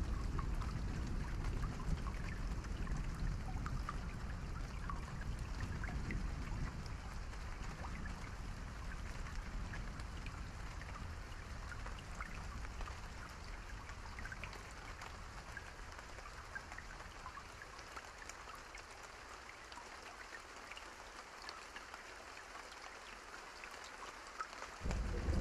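Steady rain with scattered close drop ticks. A low rumble fades away over the first two-thirds. Just before the end, a deep roll of thunder sets in suddenly.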